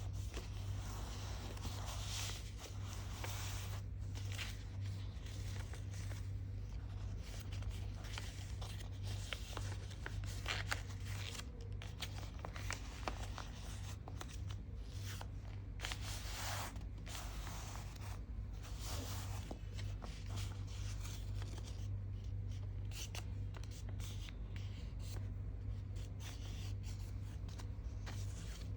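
A sheet of paper being folded and creased by hand, with irregular rustles and scrapes as the folds are pressed flat, over a steady low hum.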